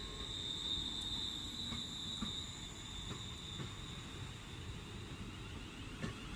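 Electric multiple-unit train running through the station: a low rumble of the train with a steady high-pitched whine, strongest in the first couple of seconds.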